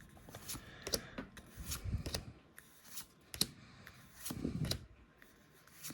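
Pokémon trading cards being slid and flipped through the hands one by one, a scatter of light card-on-card clicks and short rustles with a few soft thumps.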